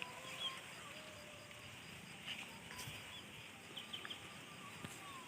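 Faint birdsong: scattered short high chirps and thin whistled notes from small birds.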